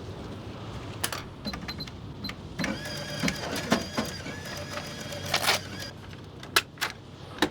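Cash register being operated: keys clicking with short beeps, then a receipt printer running for about three seconds, followed by a few more clicks.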